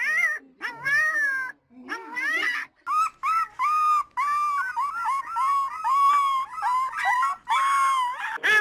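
Cat meowing: a few drawn-out, rising-and-falling meows, then a quick run of short meows at about two a second.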